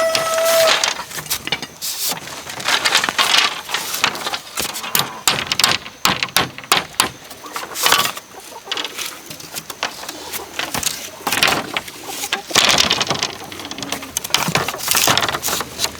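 A rooster crowing, its call ending about half a second in, followed by a long run of irregular scraping, rustling and knocking noises.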